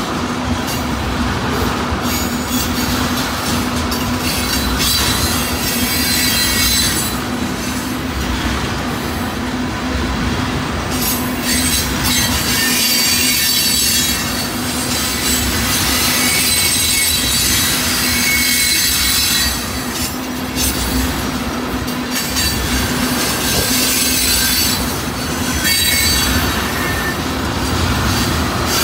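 Loaded ethanol tank cars of a freight train rolling past close by, a steady sound of steel wheels on rail. Thin high flange squeals run through it, along with some clickety-clack over the rail joints.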